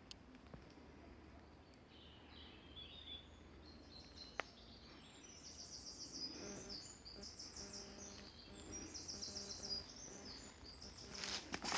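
Faint birdsong in woodland: a few short high chirps, then a high, rapid trill repeated several times through the middle. One sharp click about four seconds in, and a rustling crunch starting right at the end.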